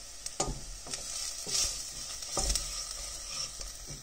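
Onions and curry spices sizzling in olive oil in a stainless-steel pot, stirred with a wooden spoon that scrapes and knocks against the pot a few times.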